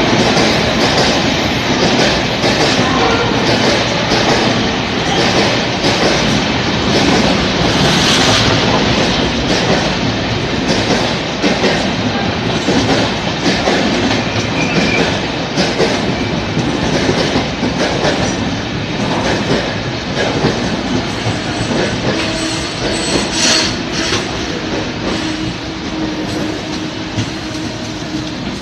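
Train passing at speed, its wheels clattering in a fast rhythm over the rail joints. A brief high ringing squeal rises out of it near the end, as the clatter eases a little.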